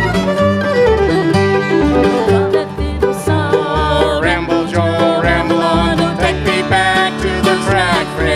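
Bluegrass band playing, a banjo to the fore over guitar and a steady bass beat.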